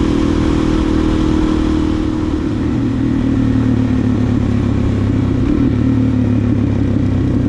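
Suzuki DR-Z400SM's single-cylinder four-stroke engine running steadily under way, heard from the moving bike with a slight change in pitch about a second in.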